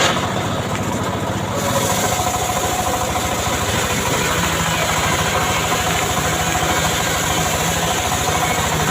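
Homemade chainsaw engine running steadily, picking up and growing brighter and slightly louder about a second and a half in.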